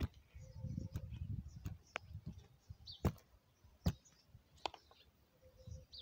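Hands handling things at close range: soft rustling with about six sharp, separate taps and clicks spread through the few seconds. Faint bird chirps sound in the background.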